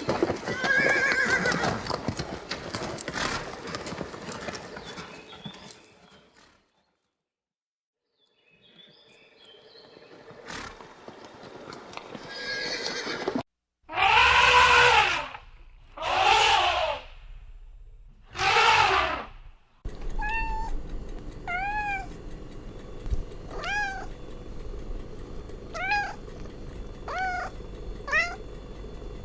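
Domestic cats meowing. After a short silence there are three loud, drawn-out meows, then a run of short, high mews about once every second and a bit. A different noisy animal sound fills the first few seconds.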